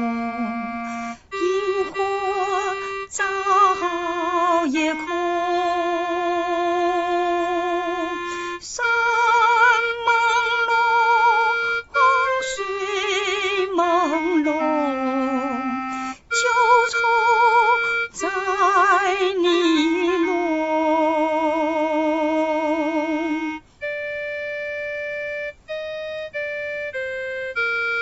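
A woman singing a slow, lyrical melody with wide vibrato on long held notes. About 24 seconds in, a plain electronic keyboard tone takes over, playing the melody one steady note at a time.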